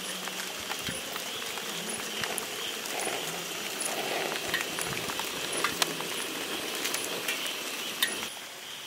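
Light rain falling, with scattered sharp drop ticks, over the steady hiss of a portable butane camping stove's flame. The hiss drops away a little near the end.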